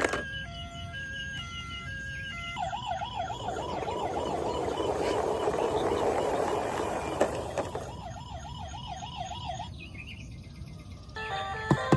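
Electronic toy-vehicle siren: a hi-lo two-tone pattern for about two and a half seconds, then a fast warbling wail of about four cycles a second that stops near the ten-second mark. A short electronic jingle starts near the end.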